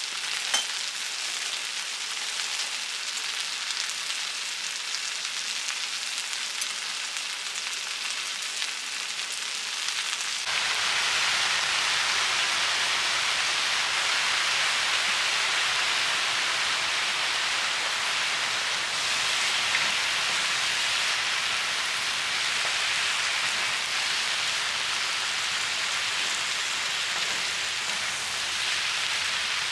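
Food sizzling and frying in a pan, a steady dense hiss. About ten seconds in it jumps abruptly to a louder, fuller sizzle.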